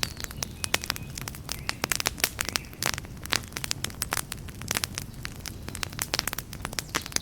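Campfire crackling: a dense run of sharp, irregular pops and snaps from burning wood over a low, steady rumble.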